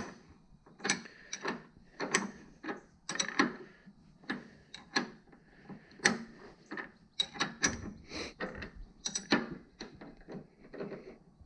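Hand ratchet clicking in short strokes as a fastener is turned on the car's suspension, irregular bursts of sharp clicks about once or twice a second.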